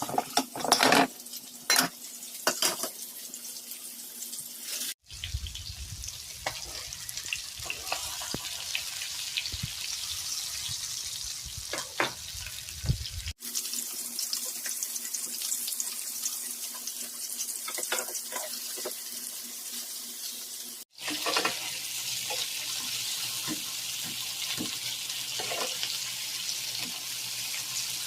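Kitchen cooking noise: a steady hiss with scattered clinks and knocks. The sound changes abruptly three times.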